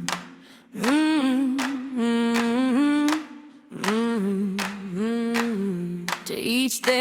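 Wordless a cappella humming of a melody by one voice, in short phrases with brief pauses between them.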